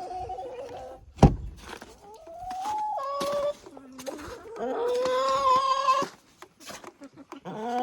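Hens calling with drawn-out, pitched calls, one after another, the longest near the end, some stepping up in pitch partway through. A single sharp thunk about a second in.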